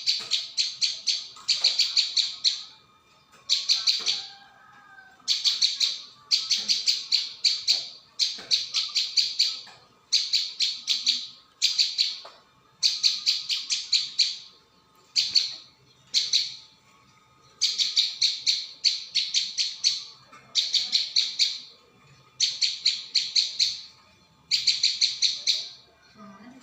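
Prenjak (prinia) calling in a lure recording: bursts of rapid, sharp, high chips, about a second each with several notes per burst, repeated over and over with short gaps.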